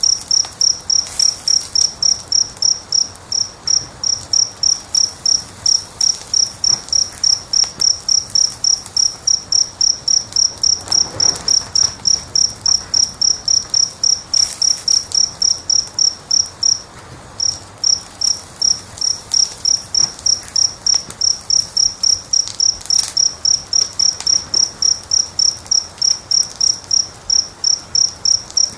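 A cricket chirping steadily in a high, even pulse of about three chirps a second, with a brief break about two-thirds of the way through. Faint crackling of a wood fire sits under it.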